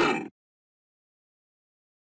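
The tail of a vehicle horn blast, cutting off abruptly about a third of a second in, followed by dead silence.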